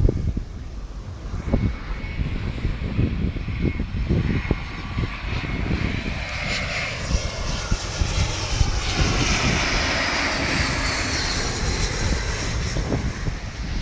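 Airbus A320 jet airliner landing, the sound of its engines swelling from a thin whine to a loud rush near the middle and then easing off. Wind buffets the microphone throughout.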